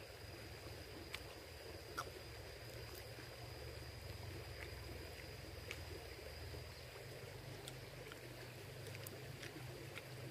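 Faint steady outdoor background noise: a low rumble, a thin steady high tone, and a few scattered soft clicks.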